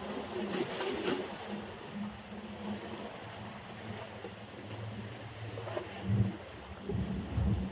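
Steady surf on a sandy beach with wind on the microphone; a few low wind gusts rumble in over the last two seconds.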